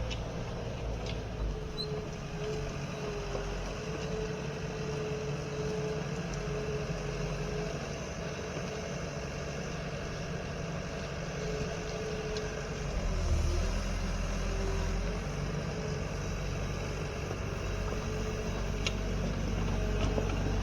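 Engine of a farm machine running steadily as it works around the pen, with a low hum and a wavering mid-pitched tone; wind buffets the microphone.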